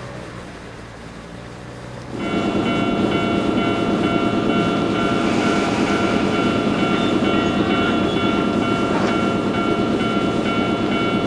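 Two-car electric train of the Wakayama Electric Railway Kishigawa Line passing over a level crossing. The steady rumble of its wheels on the rails starts abruptly about two seconds in, and the crossing's warning bell rings over it in several steady high tones; before that there is only a quieter low hum.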